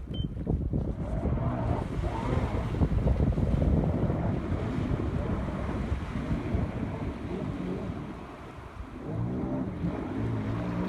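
Jet ski engine running, mixed with wind buffeting the microphone. Its steady hum comes through more clearly near the end.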